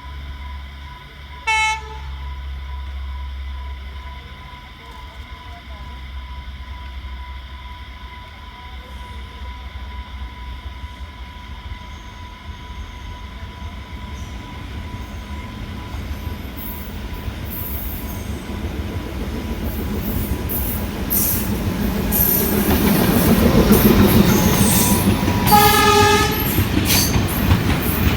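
Sri Lanka Railways M10A diesel locomotive hauling a freight train. Its horn sounds briefly twice, about a second and a half in and again near the end. The engine rumble and wheel clacking grow steadily louder as the train draws near.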